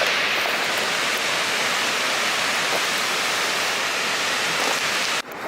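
Skógafoss waterfall heard up close: a steady, loud rush of falling water, cut off abruptly for a moment near the end.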